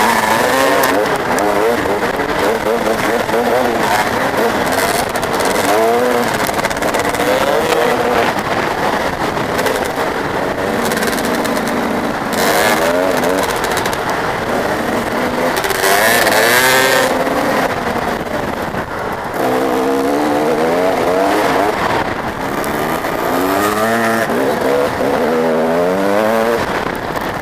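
Several motocross motorcycles' engines revving, their pitch repeatedly rising and falling as they rev and shift, several bikes overlapping, with louder passes now and then.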